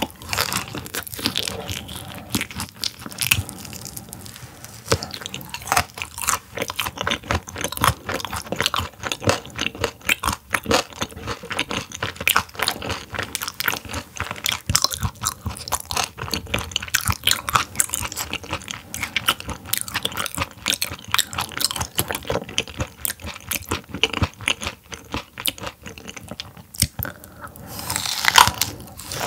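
Close-up crunching and chewing of a whole raw silver pomfret, its half-frozen flesh crackling between the teeth in many rapid, uneven crunches.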